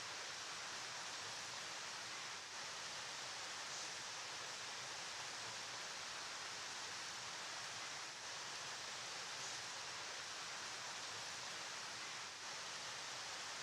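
Flowing river water: a steady, even rushing hiss with no distinct splashes.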